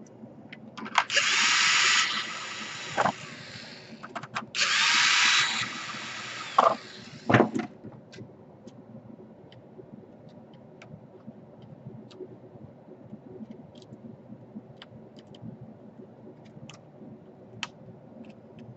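Small electric screwdriver whirring in two bursts of about a second each, driving laptop screws, with a few sharp clicks and knocks from parts being handled. After about eight seconds only faint, scattered light taps.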